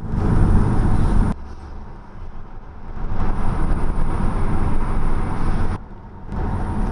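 Road and tyre noise inside a moving BMW X1, a steady low rumble broken by two abrupt cuts. A faint thin high-pitched tone runs through the middle stretch.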